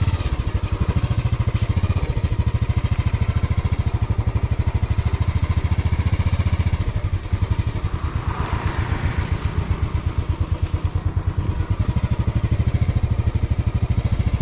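Motorcycle engine running with a steady, evenly pulsing beat, with a brief hiss swelling about eight seconds in.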